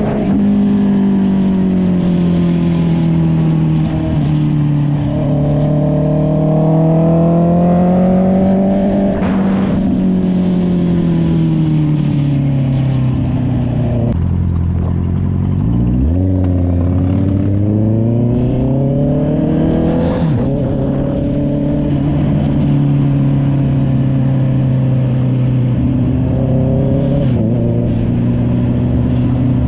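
Honda CB650R's inline-four engine through an SC Project aftermarket exhaust while riding. The engine note rises and falls with the throttle and gear changes, drops low about halfway through, then climbs steadily again.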